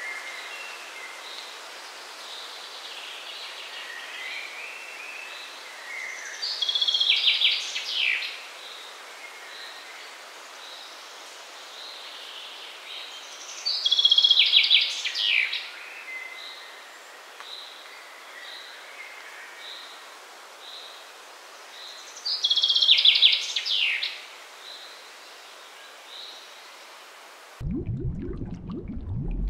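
A songbird sings a buzzy trilled phrase three times, about eight seconds apart, with short soft chirps repeated evenly between, over a steady outdoor hiss. Near the end the birdsong cuts off and a lower, louder sound takes over.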